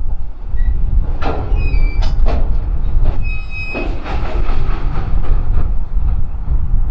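Freight train cars rolling past over a steady low rumble, with several sharp metallic clanks and short, high wheel squeals between about one and four seconds in.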